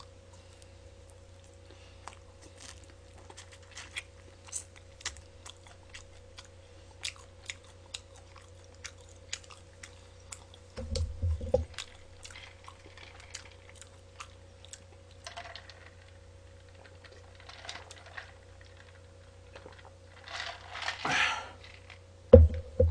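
Close-miked chewing of crunchy fried chicken: many small, irregular crunches and clicks over a steady low hum. A couple of heavier knocks come about halfway through and again just before the end.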